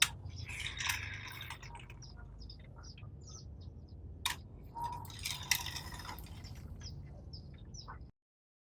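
Small birds chirping in quick, short high calls, over a low rumble, with a few sharp clicks; everything stops abruptly about eight seconds in.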